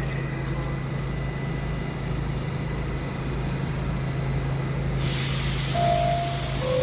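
Subway train with a steady low hum. About five seconds in, a hiss of air sets in, followed by two held tones, the second lower than the first.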